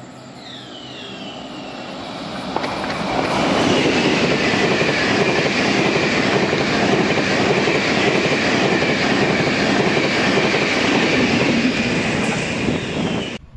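Taiwan Railway train passing at speed: the noise builds over the first few seconds as it approaches, then a loud steady rush of wheels on rail with a high whine over it. It cuts off abruptly near the end.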